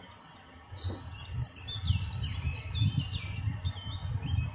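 Small birds chirping, many short quick calls that slide down in pitch, with an uneven low rumble starting about a second in.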